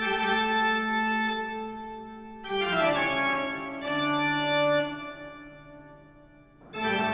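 Organ music: long held chords, changing about two and a half and four seconds in with a falling slide, then fading away near the end.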